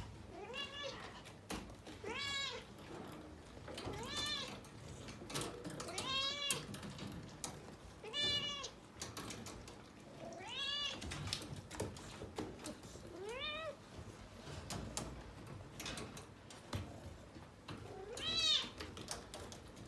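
A domestic cat meowing over and over, about eight meows, each one rising and then falling in pitch, with faint clicks between them.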